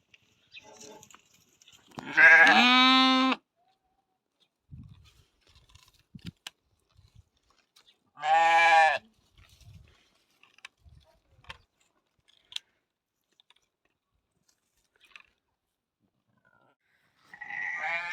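Young lambs bleating three times: one long call about two seconds in, a shorter one about eight seconds in, and another near the end. The calls are hunger bleats; the lambs seem to be hungry.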